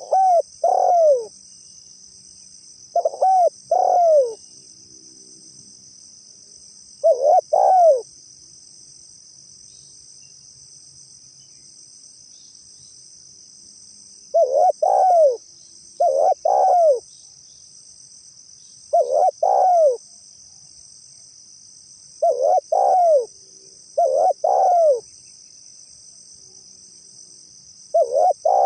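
Spotted dove (tekukur) cooing: pairs of short, arched coo notes repeated every few seconds, nine pairs in all. A steady high insect buzz, like crickets or cicadas, runs underneath.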